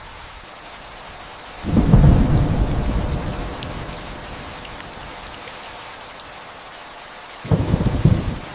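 Steady rain with two sudden rolls of thunder. The first begins about two seconds in and rumbles away over a couple of seconds; the second, shorter one comes near the end.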